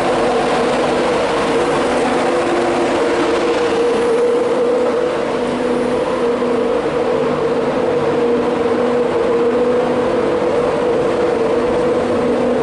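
Class 91 electric locomotive standing at the platform, a loud steady hum with several steady tones.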